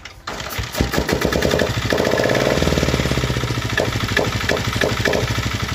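Royal Enfield Taurus diesel motorcycle's 325cc single-cylinder engine catching on a single kick about a quarter second in, then running with a fast, even chug.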